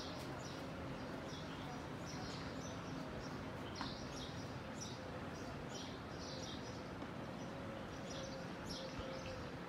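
Small birds chirping, short high chirps repeating about every half second, over a faint steady hum and outdoor background noise.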